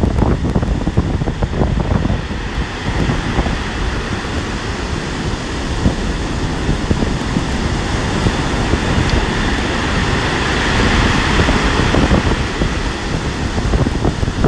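Strong gusting wind buffeting a phone's microphone, over the noise of storm waves breaking on the shore. The level stays loud and steady.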